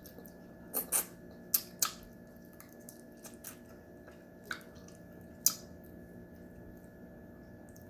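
Close-up eating sounds from a steamed crab meal: a few sharp clicks and wet smacks in the first two seconds, then two more single clicks about four and a half and five and a half seconds in, over a faint steady hum.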